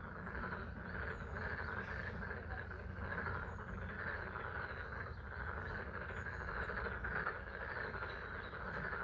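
A chorus of many frogs calling steadily from a pond, a dense unbroken trill, with spring rain falling.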